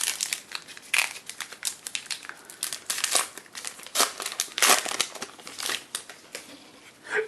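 Wrapper of a baseball card pack being torn open and crinkled by hand, a dense run of crackles and rustles that thins out near the end.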